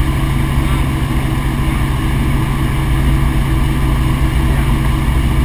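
Helicopter in flight, a steady drone with a strong low hum.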